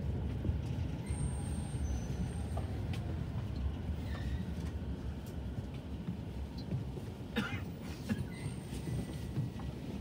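Steady low rumble inside an E231 series 500 electric commuter train braking to a stop at a platform, with a short clatter about seven seconds in.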